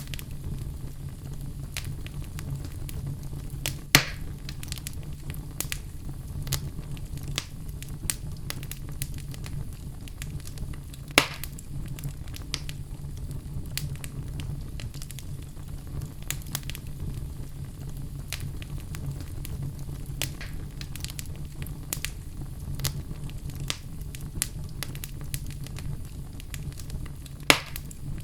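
Wood fire burning in a fireplace, crackling: a steady low rumble of flames under frequent small snaps, with three louder pops spread through.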